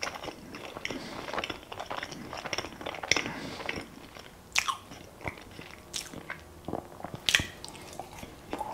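Close-up chewing and biting of a melomakarono, a Greek honey-and-walnut cookie, with several sharp crunches standing out about three, four and a half, six and seven seconds in. The cookie is stale.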